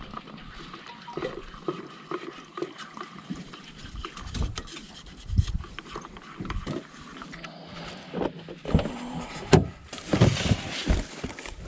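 Handling noises of making instant coffee at camp: scattered small knocks, clicks and rustles, with a denser stretch of noise about ten seconds in that fits liquid being poured.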